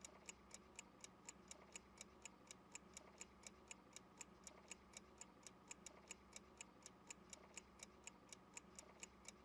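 Faint, even ticking of a clock sound effect, about four ticks a second, counting down the pause left for the learner to answer.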